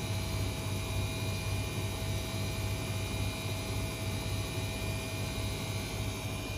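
Washing machine running: a steady motor hum with a few constant higher tones, unchanging throughout.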